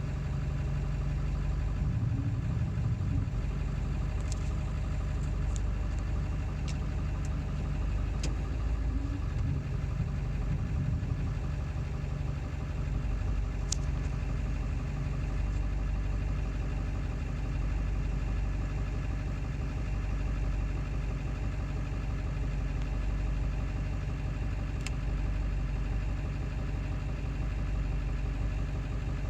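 Ford 7.3 Powerstroke V8 turbo-diesel idling steadily with diesel clatter, running rough even after a new ICP sensor. A few sharp clicks stand out over it.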